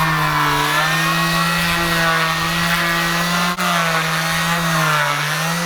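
Power sander sanding a boat's hull, running steadily with a hum whose pitch sags and recovers slightly as it is pressed against the surface. There is a brief break about halfway through.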